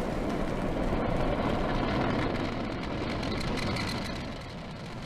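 Falcon 9 rocket's nine first-stage Merlin engines during ascent just after liftoff: a steady, loud, noisy rumble that eases slightly near the end.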